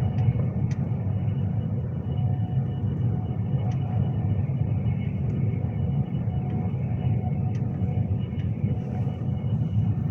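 Interior running noise of a moving Class 390 Pendolino electric train: a steady low rumble with a faint steady whine above it and a few light clicks.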